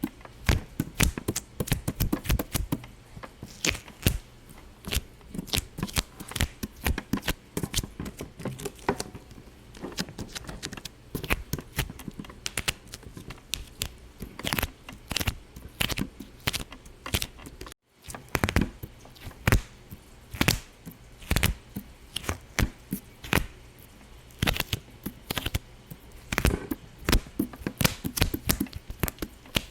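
Rapid, irregular popping and clicking, the pops coming in quick clusters of varying loudness, with the sound cutting out for a moment a little past the middle.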